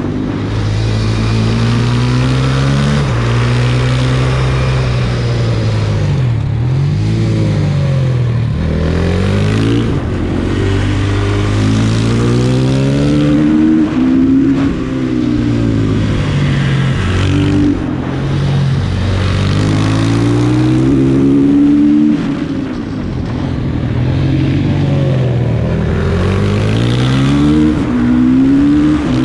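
Supermoto motorcycle's single-cylinder engine, heard from the bike, revving up through the gears and dropping off into corners, over and over.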